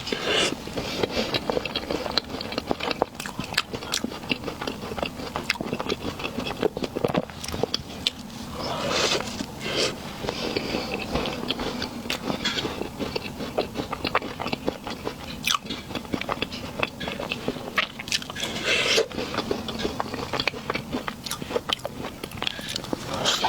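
Close-miked eating sounds of a soft dessert cake: repeated biting and chewing, with many small wet mouth clicks and smacks.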